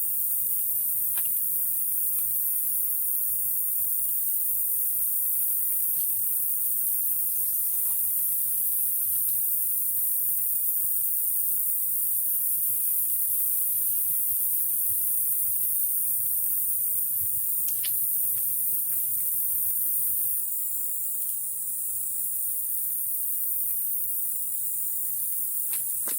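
Steady, high-pitched drone of an insect chorus, shifting to a pulsing trill about twenty seconds in, with a few faint clicks.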